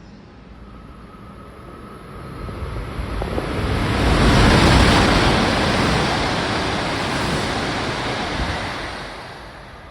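Tohoku Shinkansen E5 series train passing through the station non-stop at high speed: a rushing sound that swells over a few seconds, is loudest about four to five seconds in, then slowly fades away.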